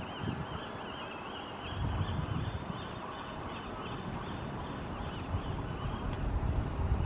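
A bird calling in a rapid run of short, high, repeated chirps, about five a second, dying away near the end. Wind rumbles on the microphone underneath.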